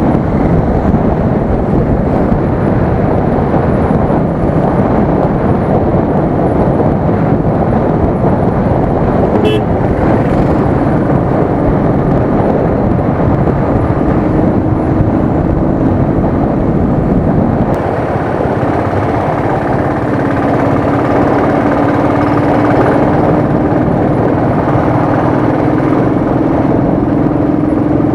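Steady wind rush on an action camera riding on a moving Royal Enfield Thunderbird motorcycle, with the bike's single-cylinder engine running underneath. A steady low tone joins about halfway through and again for the last third.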